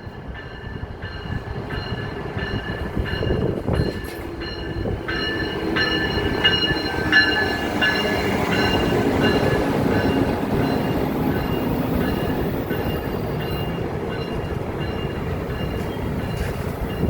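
Amtrak Capitol Corridor passenger train pulling into the station: a rumble that builds and holds as the cars roll past, with high-pitched squealing that comes and goes as it slows.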